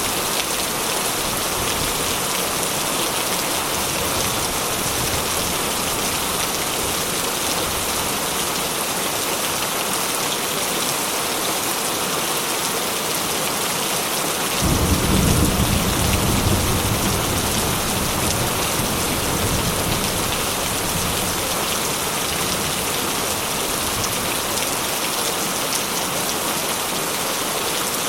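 Heavy rain falling steadily. About halfway through, a low rumble of thunder starts suddenly, swells for a couple of seconds, and fades out over several more.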